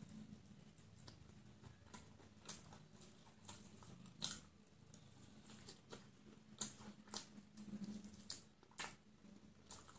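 Chewing and biting crispy fried chicken close to the microphone: irregular sharp crackles and wet mouth smacks, a dozen or so scattered through.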